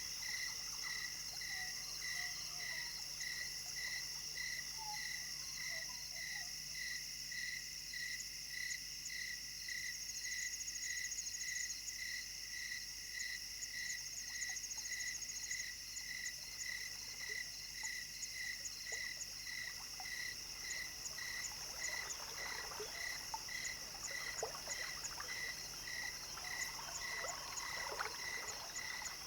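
Evening chorus of frogs and insects: a high call repeating evenly, about twice a second, over a steady higher insect trill, with a few scattered faint ticks near the end.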